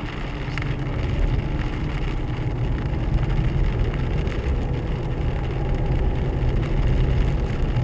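Four-wheel-drive car driving on a slushy road, heard from inside the cabin: a steady low rumble of engine and tyres.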